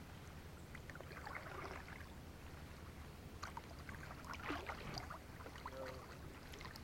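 Kayak paddle strokes dipping and splashing in calm water, two clusters of stroke sounds a few seconds apart.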